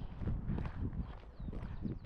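Footsteps on a park trail at a steady walking pace, with a bird chirping faintly a few times midway through.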